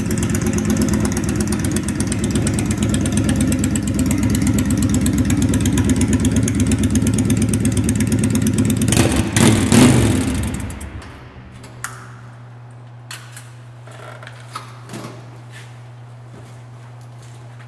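Honda Shadow VT750DC's V-twin running through a Cobra Street Rod exhaust, idling with a steady pulsing note that echoes in a parking garage. A brief blip of throttle comes about nine seconds in, and the engine then shuts off. After that only a steady low hum and a few light clicks remain.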